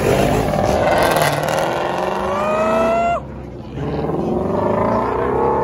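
Car engine revving hard twice: the pitch climbs for about three seconds and cuts off suddenly, then climbs again and drops off near the end.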